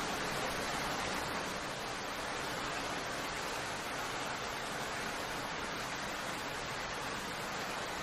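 Steady heavy rainfall: a dense, even hiss of rain with no single drops standing out.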